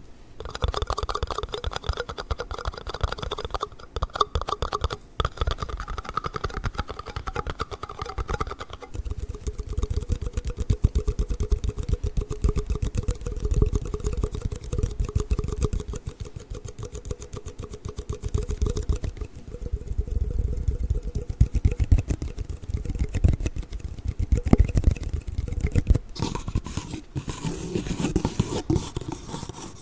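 Plastic yoghurt cups being tapped and scraped, a dense run of small clicks. The sound changes about nine seconds in, turning lower and duller, and changes again near the end.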